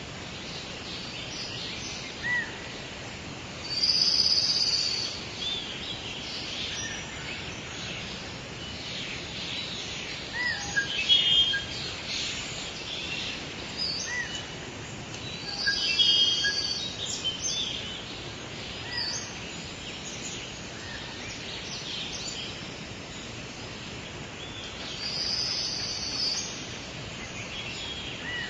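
Outdoor nature ambience of several wild birds singing and chirping over a steady high hiss. A louder, high song phrase comes back every ten seconds or so.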